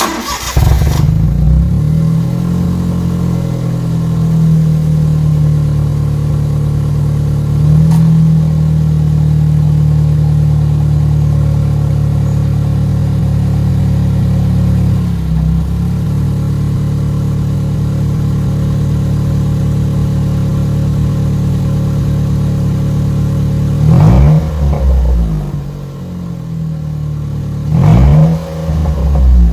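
Honda Acty kei truck engine running through a straight-pipe exhaust with no muffler, very loud. It comes in with a sudden loud burst and settles into a steady, throbbing idle. Near the end it is revved twice, each rev rising and falling sharply.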